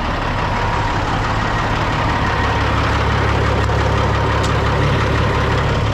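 Semi truck's diesel engine idling steadily, with a thin steady whine above the engine hum.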